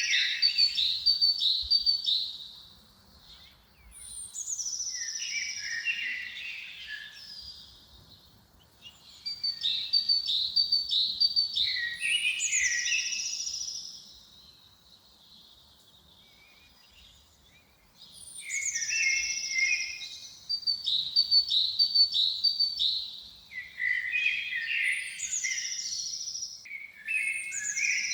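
Songbird singing in repeated phrases of a few seconds each. Each phrase opens with high descending notes and runs into quick trilled notes, with short pauses between phrases and a longer pause in the middle.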